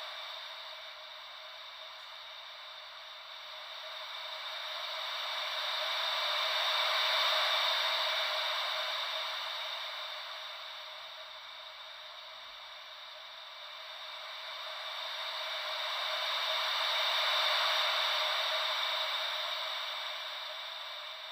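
Gentle ocean-wave white noise: a thin, even hiss with no low rumble that slowly swells and fades twice, about ten seconds to each wave.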